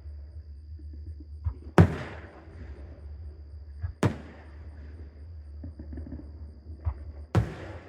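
Aerial fireworks shells bursting overhead: three loud booms about two seconds apart, each trailing off in an echo, with fainter pops between them.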